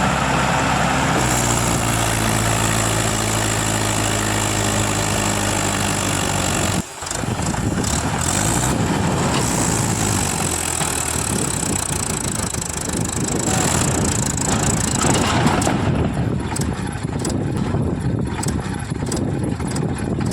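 Tractor engine running under load, a steady drone at first, then rougher and noisier with knocks and rattles after a brief break about seven seconds in.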